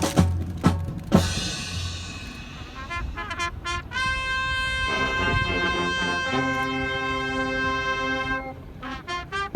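Military band playing honor-salute music: drum beats about twice a second, then a cymbal-like wash, then brass holding long chords for about four seconds before cutting off, with the drum beats returning near the end.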